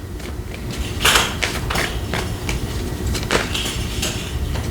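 Tarot cards being handled and laid down on a table: a string of soft taps and slaps at irregular intervals.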